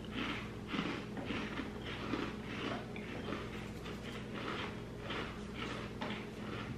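Chewing of crispy mini chocolate chip cookies: a steady crunching, about three chews every two seconds.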